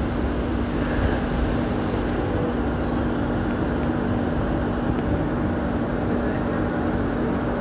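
Hong Kong Light Rail Phase III train running steadily, a constant rumble with a steady low hum and a faint high whine throughout.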